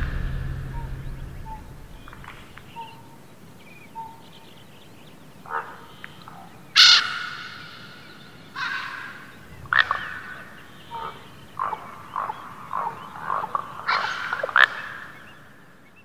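Bird calls after the tail of the music dies away: a few loud single calls spaced a second or more apart, then a quicker run of shorter calls near the end.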